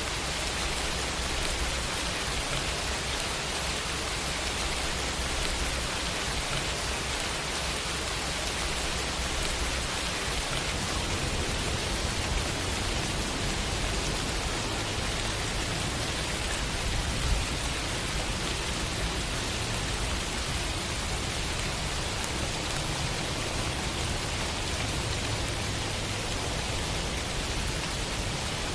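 Steady rain: an even hiss of falling rain with a low rumble underneath.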